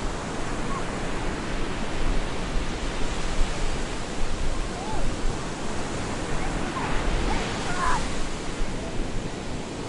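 Storm surf breaking on a beach: a dense, steady rush of wave noise that swells and eases. A few faint short high calls sound over it near the middle.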